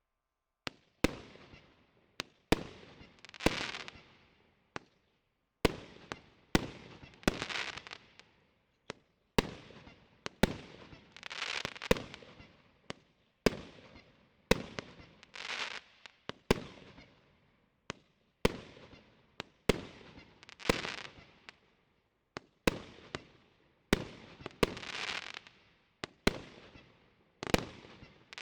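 Consumer fireworks cake (a 25-shot Fire Zone battery) firing shot after shot, about one every second or so. Each shot is a sharp launch report followed by a noisy break that trails away.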